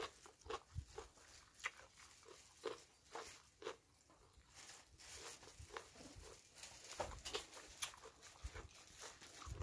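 Close, wet chewing and lip-smacking of a person eating papaya salad with sticky rice: a string of short, irregular smacks and clicks.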